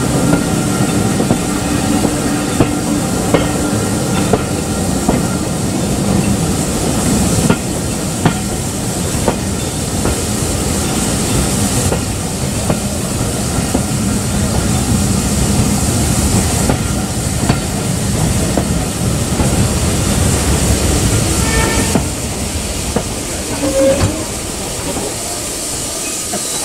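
Steam-hauled heritage train running on the track: a steady rumble of wheels on rail, with scattered sharp clicks as they pass over rail joints.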